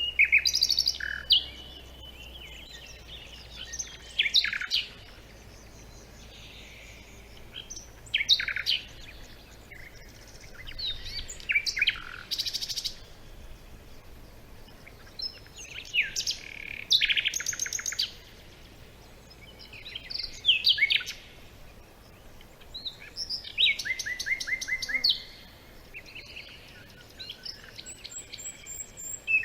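Songbirds chirping and singing in short phrases of quick whistles and trills, a phrase every few seconds, more than one bird calling.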